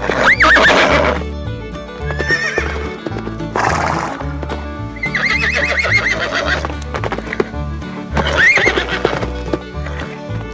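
Horse whinnying several times, each call a high pitch that rises and falls, over background music with a steady repeating bass line.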